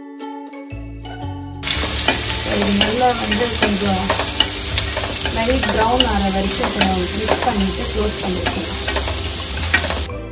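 Sliced onions and green chillies sizzling in hot oil in a non-stick pan while a spatula stirs them, scraping and clicking against the pan. The sizzling starts suddenly about a second and a half in.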